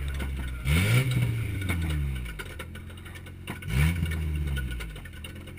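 Compact race car's engine revving twice, each time climbing quickly in pitch and then falling away slowly as the throttle eases.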